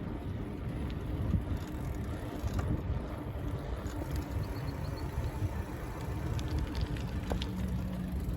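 Rumbling tyre, road and wind noise from a bicycle ride picked up by a handheld camera, with scattered small clicks and rattles.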